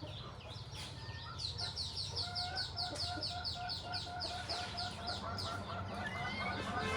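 Rapid run of high, bird-like chirps, about four or five a second, each falling in pitch, with a lower note repeating beneath them; the chirps thin out near the end.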